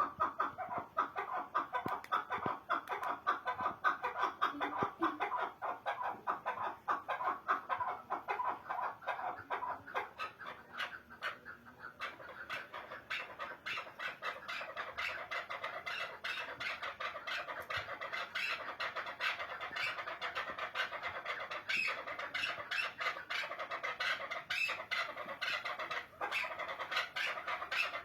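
Chukar partridge calling: a long run of rapid, repeated clucking notes, many to the second, shifting somewhat higher and busier about halfway through.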